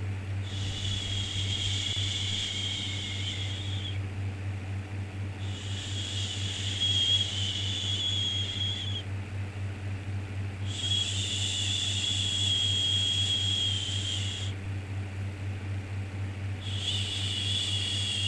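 A soothing 'shhh' shushing sound repeated four times, each shush lasting about three and a half seconds with short pauses between, over a steady low hum.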